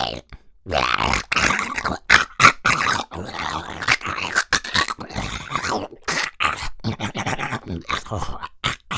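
A man's voice making raspy creature growls and snarls in a rapid, uneven string of short bursts, like a monster or beast.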